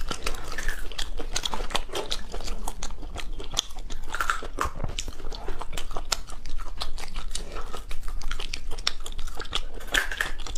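Close-miked biting and chewing of shrimp, with many short, sharp crunching clicks.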